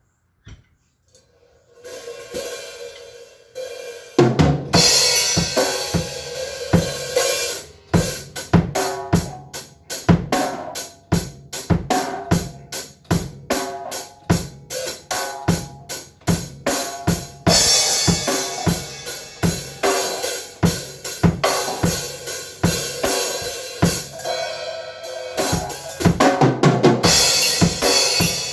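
Drum kit being played: light cymbal taps come in about two seconds in, then from about four seconds the full kit with snare, bass drum, hi-hat and cymbals in a steady, busy pattern, with heavier cymbal crashes in the second half.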